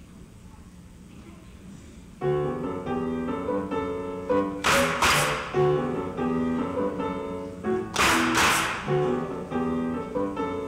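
Quiet hall tone for about two seconds, then a piano starts playing an introduction in steady chords. Twice, a bright swishing percussion sound comes in a quick pair over the piano: near the middle and again about three seconds later.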